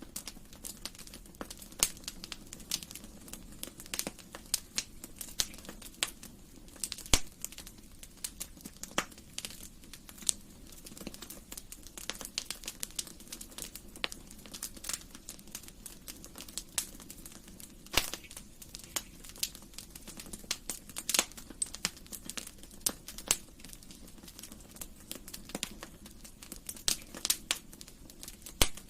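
Wood fire crackling in a fireplace: irregular sharp snaps and pops over a low steady hiss of the flames, with a few louder pops scattered through.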